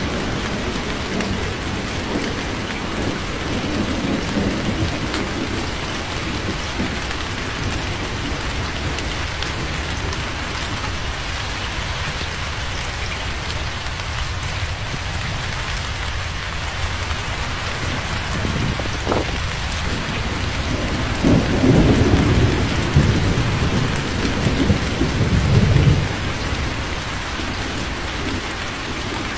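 Steady rain falling with rolling thunder. Low rumbles are heard in the first few seconds, and a louder, longer peal of thunder swells about two-thirds of the way through before dying back to the rain.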